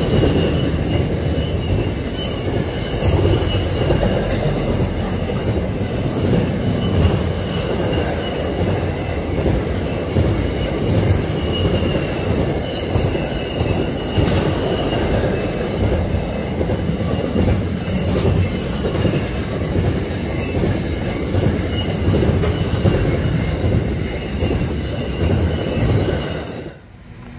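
Pacific National intermodal container freight train's wagons rolling past close by with a steady rumble of wheels on rail and a thin, wavering wheel squeal over it. The sound cuts off abruptly a little before the end.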